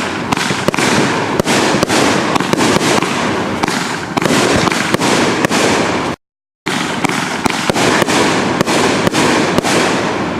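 Consumer fireworks going off: a dense, unbroken run of loud crackling and sharp pops. The sound drops out completely for about half a second just after six seconds in, then resumes.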